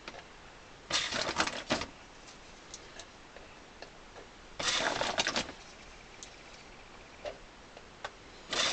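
Small clamps being handled and fitted, in two short bursts of rapid clicking and rattling about a second in and around the middle, with another starting near the end.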